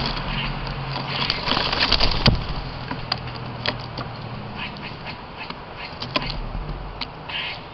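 Birds giving short, harsh calls several times, mixed with sharp clicks and taps, over a low rumble of traffic that fades partway through.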